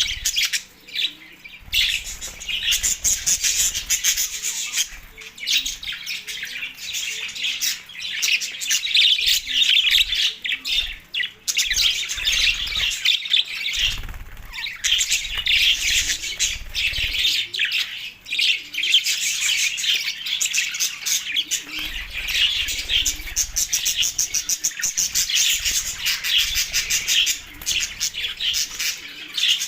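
Budgerigar chatter: a dense, continuous stream of quick chirps, warbles and squawks in breeding-season excitement.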